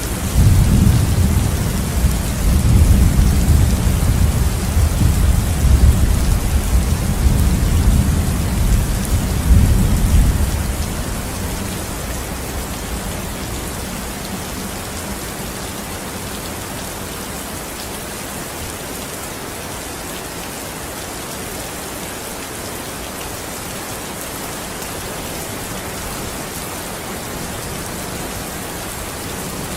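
Steady heavy rain falling. For about the first ten seconds a deep, loud rumble of thunder rolls under it, then dies away, leaving only the rain.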